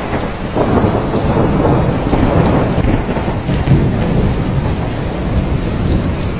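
Steady rain with a roll of thunder that swells about half a second in and rumbles for several seconds before easing off.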